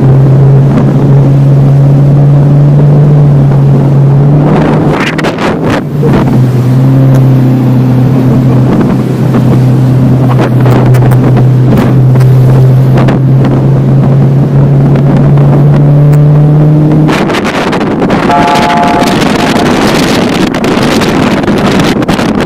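Motorboat engine running at a steady drone, with wind buffeting the microphone. The engine note dips briefly about five seconds in and drops away about seventeen seconds in, leaving mostly wind noise.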